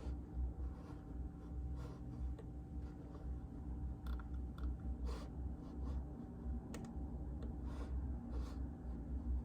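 Sparse, irregular keystrokes on a JJK84 mechanical keyboard with Outemu Silent Peach linear switches: about a dozen soft clicks, a few in quick pairs, over a steady low hum.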